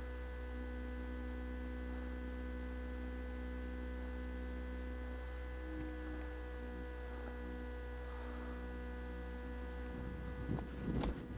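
A steady low electrical hum with several fainter steady tones above it. About a second before the end, a few sharp knocks and rustles break in over it.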